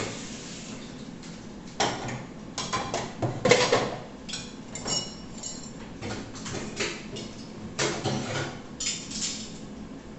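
Dishes and cutlery clinking and clattering as they are handled, in a run of irregular knocks. A brief ringing clink comes about five seconds in.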